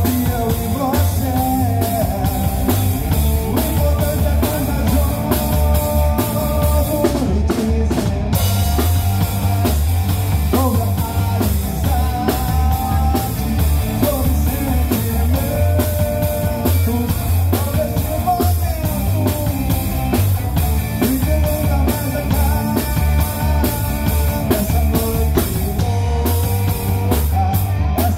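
A live rock band plays: a drum kit keeps a steady beat under bass and guitars, with a melody line wavering above.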